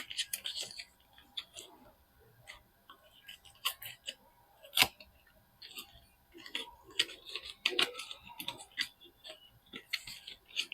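Soap bars being unpacked: packaging crinkling and rustling in short patches, with scattered light clicks and taps. A sharp tap nearly five seconds in is the loudest.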